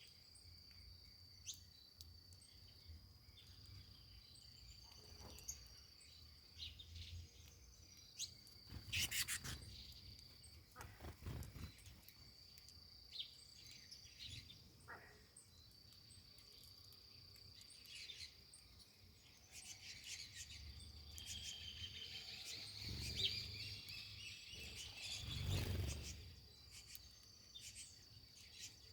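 Outdoor ambience with a steady high insect trill running throughout, and small birds chirping and calling here and there over it. There are a couple of short sharp noises about nine and eleven seconds in, and a busier burst of chirps near the end.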